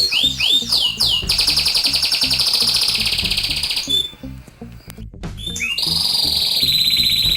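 A songbird's fast chirping trills, a recorded bird-lure call, with a break of about a second and a half near the middle before the trill resumes. A backing track with a steady beat runs underneath.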